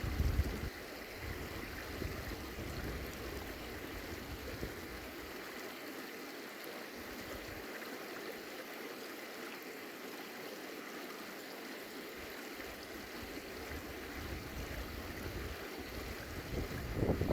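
Steady rush of running water, with wind buffeting the microphone at the start and again near the end.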